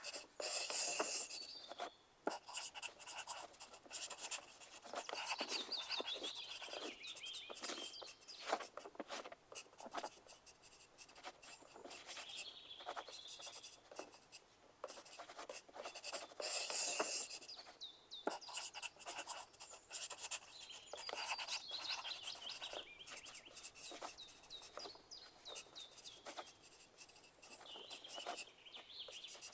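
Pencil writing on paper: a continuous run of irregular scratching strokes, with louder, busier bursts of writing about a second in and again a little past halfway.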